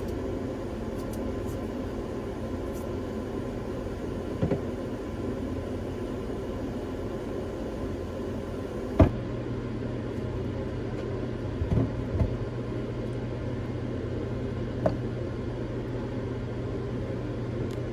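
A steady low mechanical hum, with a few light knocks and one sharper knock about halfway through, after which the hum's tone shifts slightly.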